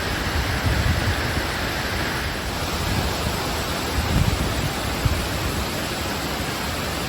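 Floodwater of a storm-swollen creek rushing over a road, a steady loud roar of water with low rumbling swells, one of them near the middle, and a brief knock about five seconds in.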